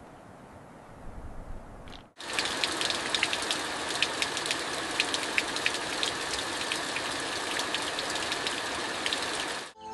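Steady rain with many sharp drops ticking on a surface. It starts abruptly about two seconds in, after a fainter stretch of hiss.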